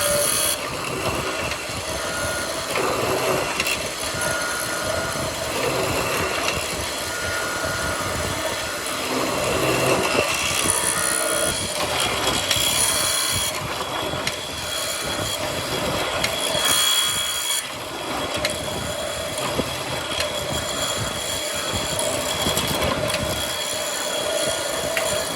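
Woodworking power tools running on wood, a steady machine drone with harsher hissing surges about halfway through and again a few seconds later.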